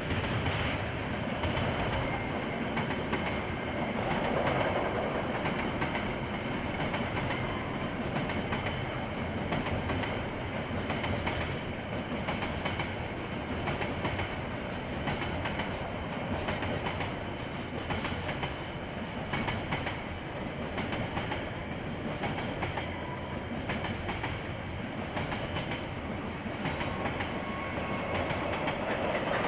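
KiwiRail train rolling past, a steady rolling noise with faint repeated clicks of wheels over the rail.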